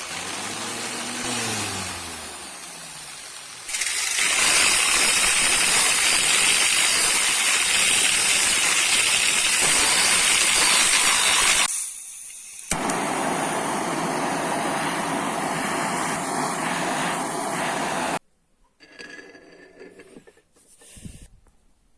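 A motor-driven power tool working the metal of an antique adjustable wrench: it spins up and down briefly, then runs loud with a harsh, hissing scour for about eight seconds, stops for a moment, and runs again for about five seconds before cutting off.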